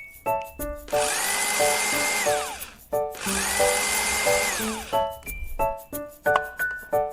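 Light background music of short plucked notes, with a small motor whirring twice for about two seconds each time, its whine rising as it starts and falling away as it stops.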